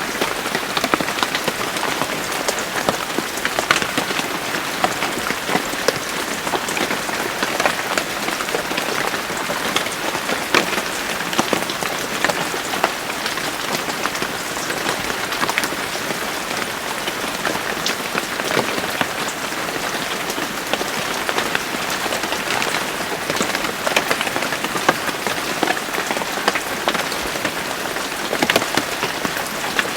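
Steady rain falling on a hard surface, with many separate drops pattering and ticking over the even hiss.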